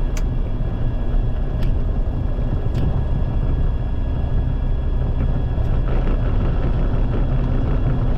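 Light aircraft's piston engine idling on the ground at the start of the shutdown checklist, a steady low rumble, with a few faint clicks.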